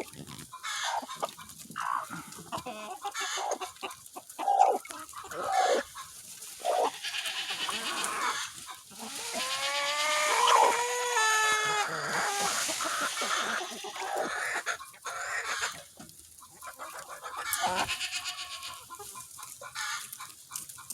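Flock of chickens clucking on and off, with a rooster crowing once, a long call of about three seconds, near the middle.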